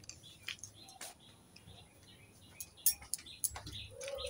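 Small birds chirping faintly in many short, repeated calls, with a few sharp clicks in between.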